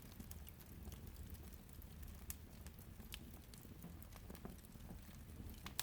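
Firewood burning in a traditional Korean agungi firebox, crackling with scattered sharp pops and snaps over a low steady rumble. The loudest snap comes near the end.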